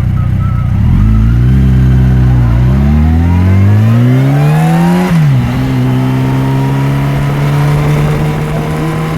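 Yamaha FJR1300 inline-four motorcycle engine accelerating through the gears: the engine pitch climbs, dips briefly at a gear change about two and a half seconds in, climbs higher, drops at another shift near five seconds, then holds steady at cruising speed.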